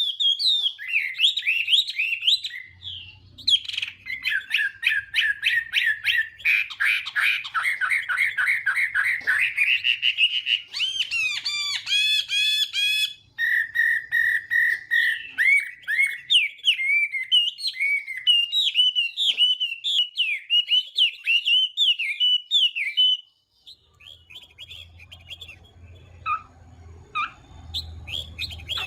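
Chinese hwamei singing a long, varied song of whistled phrases and rapid trills. About 23 seconds in it breaks off into fainter, scattered notes.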